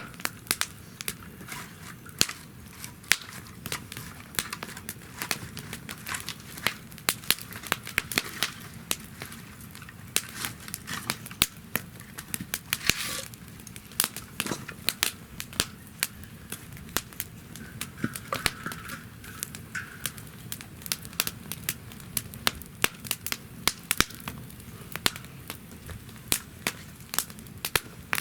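Wood fire burning in a fire pit stand, crackling with frequent sharp pops and a brief hiss near the middle.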